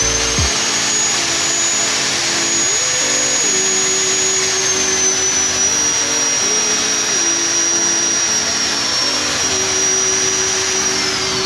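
Corded electric drill spinning a wire brush against a small metal engine part, its motor whining at a steady high pitch. The pitch sags slightly about halfway, and the drill winds down near the end.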